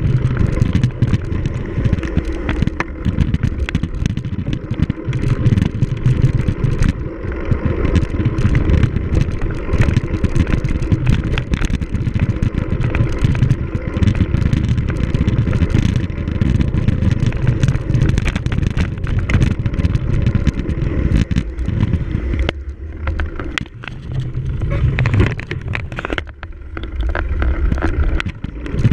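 Steady rumble with frequent knocks and rattles, as of a camera riding on a cyclocross bike over rough ground. It eases for a second or so twice near the end.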